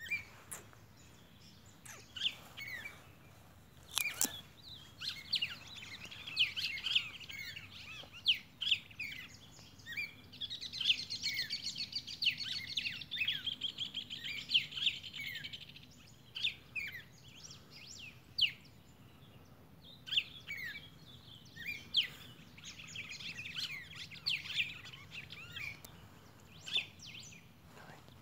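Songbirds chirping and singing, with many short chirps throughout and two longer, fast warbling songs, one about ten seconds in and one a little after twenty seconds. A single sharp click about four seconds in.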